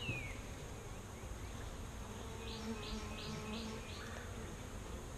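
Honeybees buzzing around an open hive, a steady hum, with a run of five faint high chirps about halfway through.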